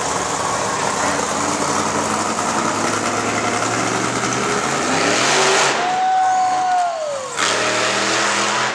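Monster truck engine running loud, rising in pitch about five seconds in, then a whine falling in pitch as it winds down, with another loud burst of engine noise near the end.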